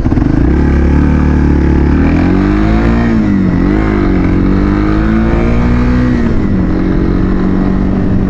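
Motorcycle engine running, its pitch rising and falling a few times in the middle before settling to a steady note near the end.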